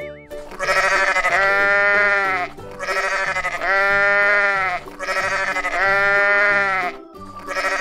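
Sheep bleating three times, each a long baa of about two seconds.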